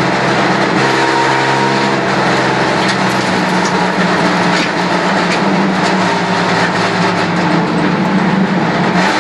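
HQ Holden race car's engine heard from inside the cabin, running at a steady pace with cabin rattles over it. Near the end the note dips briefly and comes back at a different pitch.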